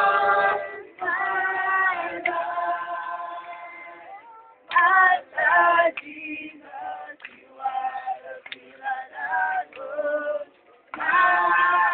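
A group of voices singing together in long held notes, broken into phrases with short pauses.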